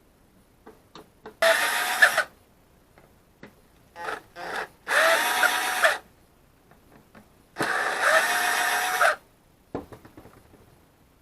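Handheld power drill run in three short bursts, the longest near the end, each with a motor whine that rises briefly as it spins up. Small clicks and knocks come between the bursts.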